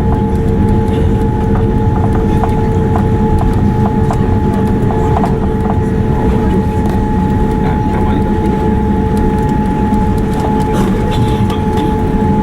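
Steady loud rumble of a Boeing 787-9 jet airliner heard from inside the cabin, with a steady whine running over it and a few faint ticks.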